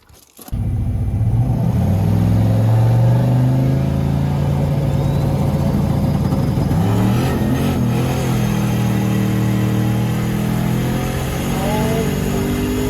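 Turbocharged LS V8 truck engine pulling hard under load. Its pitch drops briefly about seven seconds in, as at a gear change, then climbs again near the end.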